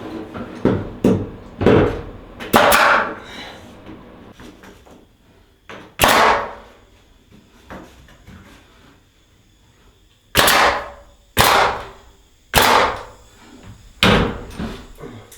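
Trim strips being nailed up on a wall: about eight sharp bangs, a cluster in the first three seconds, one around six seconds in, and four more about a second apart near the end, each ringing briefly, with quieter handling knocks between.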